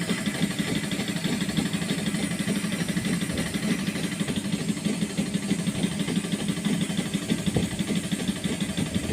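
A machine running steadily: an even mechanical hum with a fast flutter, as the engine flush is under way on the Mitsubishi Pajero.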